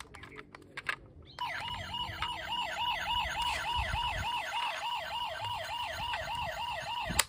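Electronic siren of a toy emergency vehicle sounding a fast, repeating yelp, each sweep falling in pitch, about three to four a second. It starts about a second and a half in and cuts off suddenly with a click near the end.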